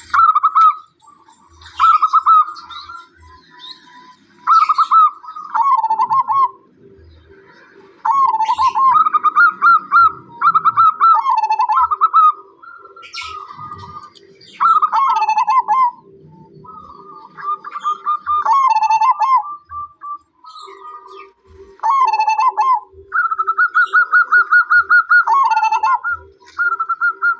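Zebra dove (perkutut) cooing: repeated rolling, trilled phrases, each ending in a drop in pitch, one every second or two.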